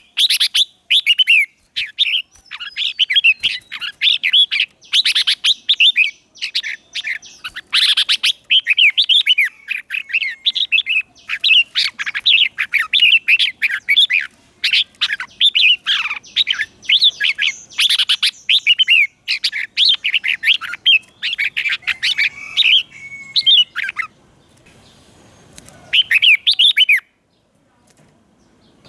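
Red-whiskered bulbul decoy bird singing loud, quick, warbling whistled phrases one after another, the song used to call in wild bulbuls. The song stops for a moment about four-fifths of the way in, comes back with one short phrase, then falls quiet again.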